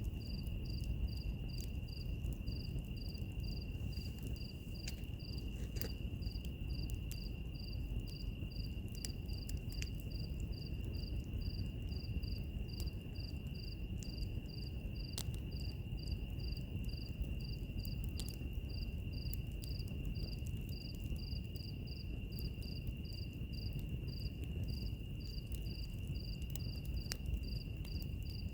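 Crackling wood fire with scattered sharp pops over a low rumble, mixed with insects: one steady high drone and a regular chirping at roughly two to three chirps a second.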